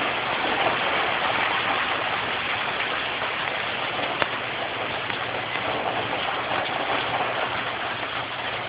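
Heavy tropical-storm rain driven by gusty wind: a steady rushing hiss that eases slightly toward the end.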